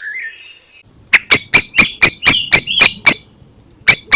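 Common blackbird giving runs of loud, sharp calls, about four a second: the rapid chinking typical of a blackbird's alarm. A brief soft warble comes first, and a second run starts near the end after a short pause.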